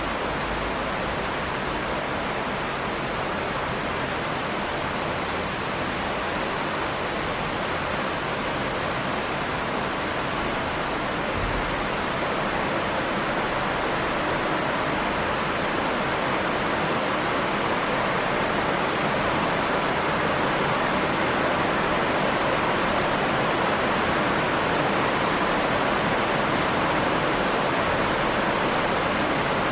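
Steady rain falling, an even hiss with no distinct drops, growing a little louder about halfway through.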